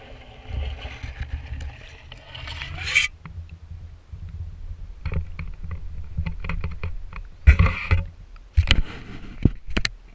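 Muffled water sloshing and rumbling around a GoPro's waterproof housing as it is moved through pond water, swelling for the first few seconds, then a run of knocks and several heavy thumps against the housing.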